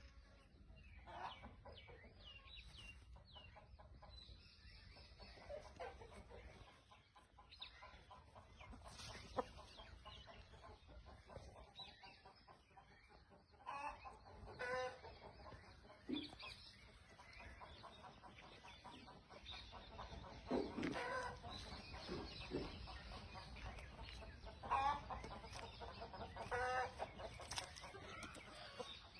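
Aseel chickens clucking now and then, in short calls heard a few times, over a faint low rumble.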